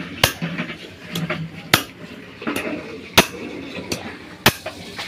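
Sharp knocks about every second and a half, with lighter knocks between: work on a motorcycle rear shock absorber's coil spring as it is stretched longer with a piece of wood.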